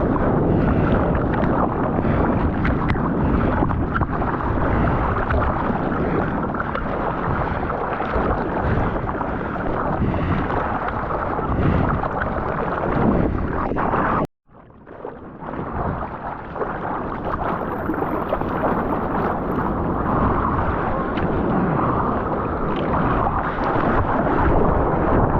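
Wind buffeting the camera's microphone over the rush of surf and water, a steady noisy roar. About halfway through it cuts out abruptly, then fades back in.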